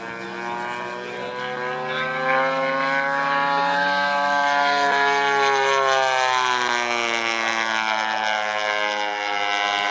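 Radio-controlled giant-scale P-47 model's DA-85 single-cylinder two-stroke gas engine and propeller running in flight. The pitch rises and then falls as it passes, loudest in the middle.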